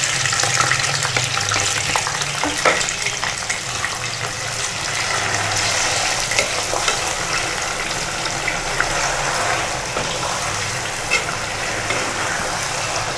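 Milk-soaked semolina frying in hot cooking oil in a metal pan with a steady sizzle, plus a few sharp clicks of the stirring spoon against the pan.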